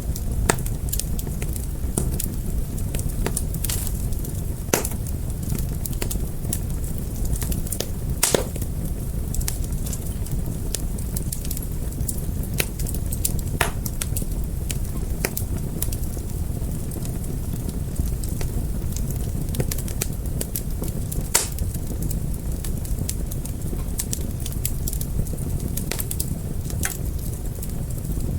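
Fire crackling: irregular sharp pops and snaps over a steady low rumble of burning, with a few louder pops standing out.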